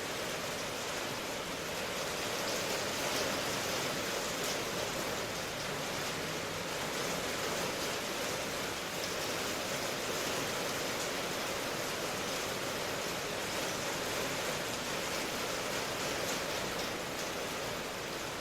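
Steady rain hiss, an even wash of noise without distinct drops or rhythm.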